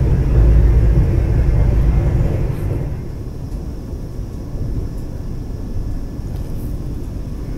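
Vande Bharat Express train running, a steady low rumble heard from inside the coach, louder for the first few seconds and then settling to a quieter level.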